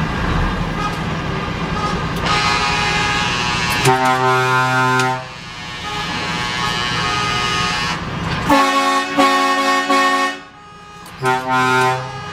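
Truck air horn sounding several blasts over running engine and road noise: one about a second long near the middle, then a series of short toots, then a last short blast near the end.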